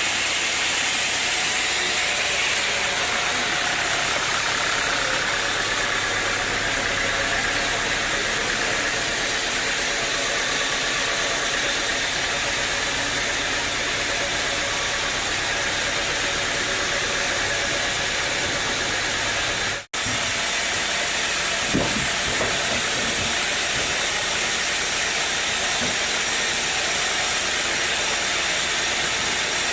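Sawmill machinery running with a steady, even noise. It cuts out suddenly for an instant about two-thirds of the way through, and a single knock follows soon after.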